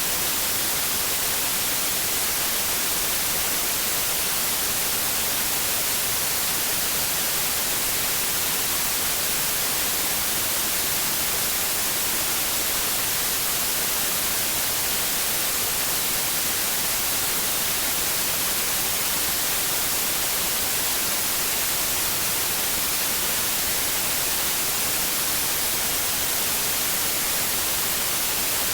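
Continuous white noise: an even, unchanging hiss, bright and strongest in the high frequencies, played as a sleep aid for babies.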